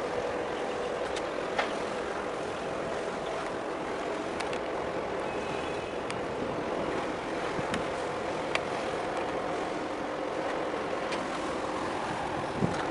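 Steady drone of a boat's engine mixed with wind on the microphone, with a faint hum and a few brief clicks.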